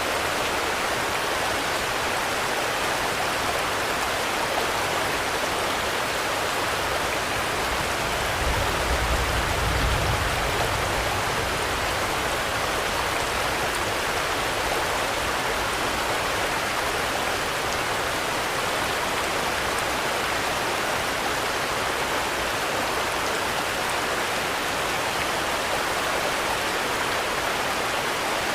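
Steady rain falling, an even hiss without a break. A brief low rumble swells up about a third of the way through and fades again.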